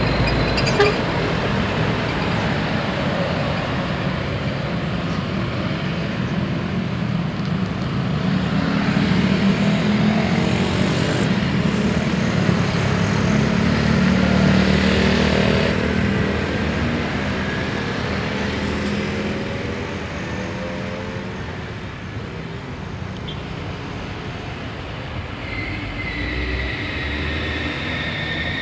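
Heavy highway traffic: large trucks and other vehicles passing with engine drone and tyre noise, swelling as a heavy vehicle goes by in the middle and easing off toward the end.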